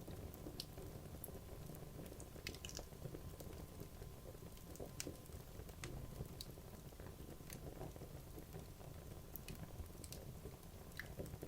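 Wood logs burning in a fireplace: a low steady rumble of flames with irregular sharp crackles and pops scattered throughout.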